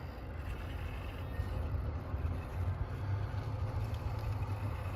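Electric RC rock crawler running slowly over rock, a steady low hum from its motor and drivetrain.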